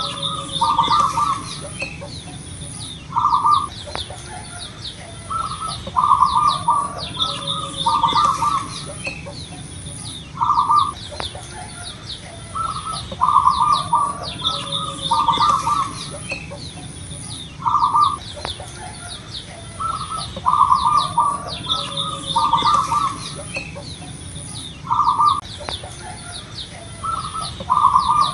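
Zebra dove (perkutut) cooing: phrases of short, low coo notes repeated every two to three seconds. Behind it are many quick high chirps from small birds and a high, pulsing tone.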